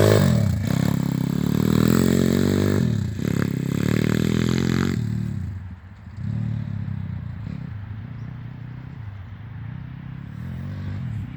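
Pit bike engine revving up and down in several strong pulls. About five seconds in it drops away to a quieter, lower steady running.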